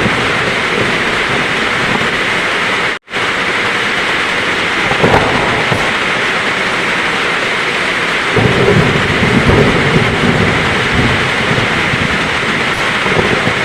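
Heavy rain falling steadily, with a low rumble of thunder rolling in about eight seconds in. The sound cuts out completely for a split second about three seconds in.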